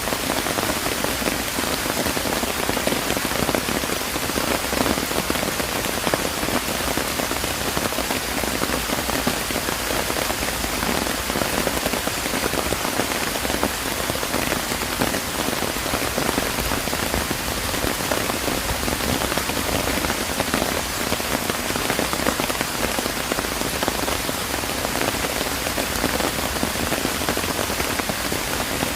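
Steady rain falling and pattering on surfaces, an even hiss of many drops with no pauses.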